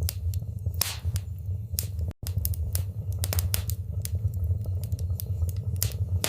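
Wood fire burning in a fireplace: sharp, irregular crackles and pops over a steady low rumble of the flames. The sound cuts out for an instant a little over two seconds in.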